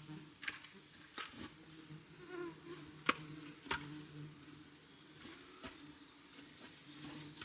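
A fly buzzing in a steady, wavering low hum, with a few sharp clicks or snaps over it, the loudest about three seconds in.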